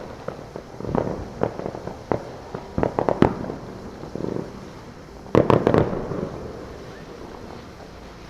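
Neighbourhood fireworks and firecrackers going off at a distance: scattered sharp bangs and pops, with a quick loud cluster of bangs about five and a half seconds in, then echoes dying away.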